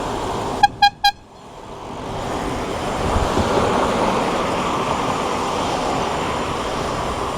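Three quick electronic beeps about a second in, then the steady noise of road traffic builds up and holds while riding along a city street.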